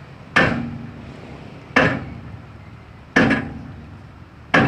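Hammer blows on a truck's siding, four evenly spaced strikes about a second and a half apart, each with a short ringing decay.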